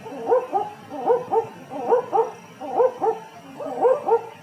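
An owl calling: short pitched hoots in pairs, about one pair a second.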